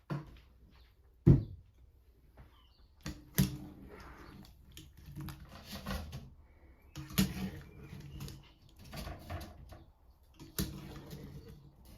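Irregular knocks and clatter of household objects being handled and set down, with rustling in between. The loudest is a sharp knock about a second in, and several more follow at uneven intervals.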